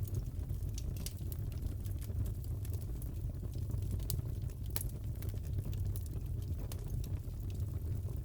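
Wood fire crackling in a fireplace: irregular sharp pops and snaps over a steady low rumble. The strongest snaps come about four and five seconds in.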